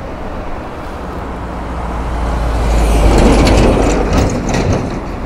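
Road vehicle driving past, its low rumble growing to its loudest about three seconds in and then fading, with a few rattling clatters as it goes by.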